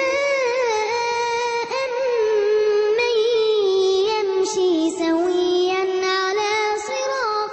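A young girl chanting Quranic recitation (tajweed) in a drawn-out melodic style, holding long notes and winding the pitch up and down through ornamented phrases, with brief breaks for breath.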